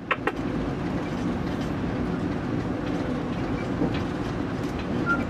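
Steady running noise inside the cab of a moving locomotive: an even drone and rattle of the engine and the wheels on the rails.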